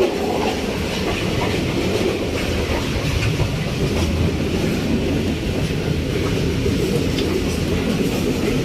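Karakoram Express passenger train in motion, heard from inside an economy carriage: a steady rumble of wheels on track with faint scattered clicks.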